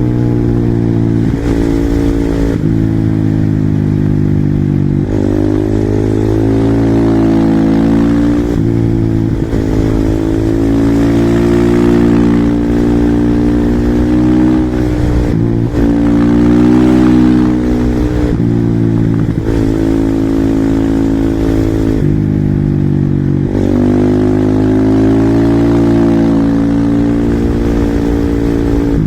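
Husqvarna SM 450R supermoto's single-cylinder four-stroke engine at full throttle, revs climbing again and again, each climb cut off by a gear change or a lift of the throttle.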